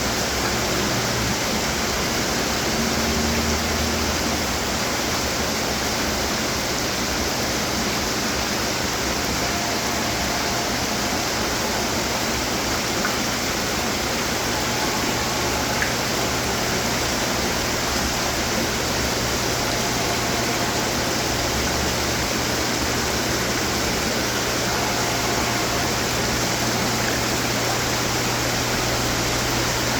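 Many decorative water fountains running together: a steady rush of splashing, falling water with a low hum beneath it.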